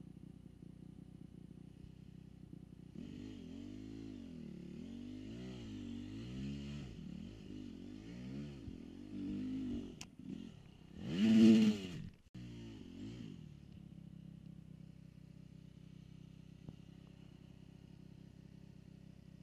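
Dirt bike engine ticking over steadily, then revving up and down over and over for about ten seconds, with the loudest rev near the end of that stretch. It then drops back to a steady idle.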